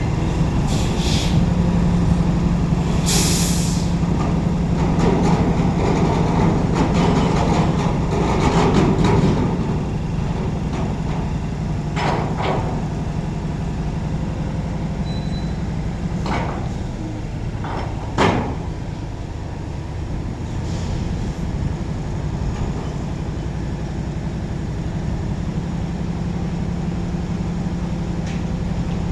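Container truck's diesel engine running steadily, with short air-brake hisses in the first few seconds and a few sharp knocks in the second half, the loudest about eighteen seconds in.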